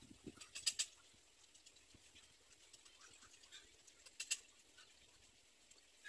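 Faint outdoor ambience broken by two quick clusters of sharp, high, chip-like clicks from a bird: three under a second in, and two more just past four seconds.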